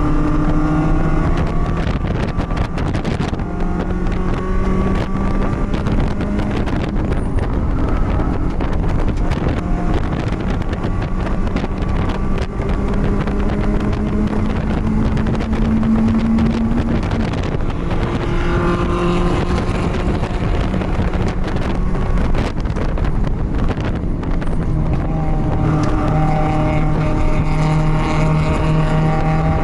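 Onboard sound of a BMW race car's engine running hard under load, its pitch climbing slowly, dropping back and climbing again as the car accelerates and shifts through the lap, with wind rushing past and occasional knocks.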